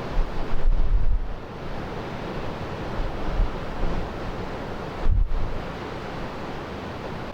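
Strong wind buffeting the microphone in gusts, loudest about a second in and again near five seconds, over a steady rush of wind and surf.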